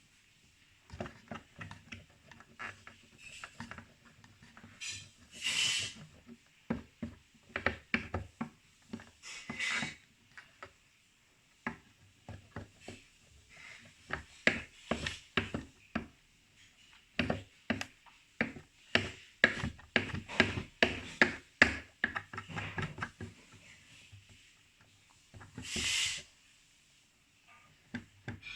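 Thick marker tips scraping and tapping on the wooden walls of a birdhouse, in irregular strokes and knocks, with a few short hissing bursts in between.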